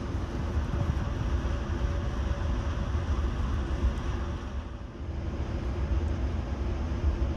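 Ride noise of a locomotive-hauled passenger train heard from inside the coach: a steady low rumble of wheels on rails with a faint drone over it. The noise dips briefly about five seconds in, then returns.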